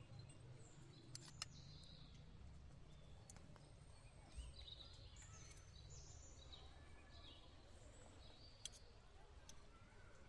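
Near silence: faint outdoor ambience with scattered faint bird chirps and a few sharp clicks, two about a second in and one near the end.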